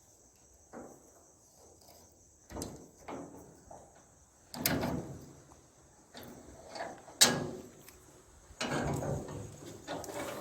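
A door being unlocked and opened: a few rattling, sliding bursts and a sharp latch click about seven seconds in.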